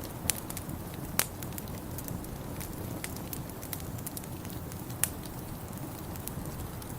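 Wood fire in a fireplace crackling, with irregular sharp pops over a steady low rumble; the strongest pops come about a second in and around five seconds in.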